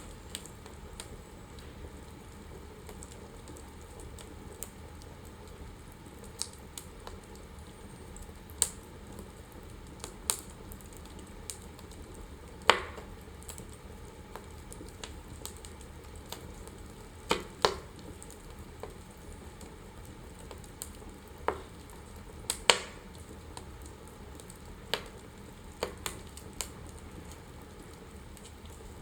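Wood fire burning in a fireplace: a steady low hiss with irregular sharp crackles and pops, a few of them loud.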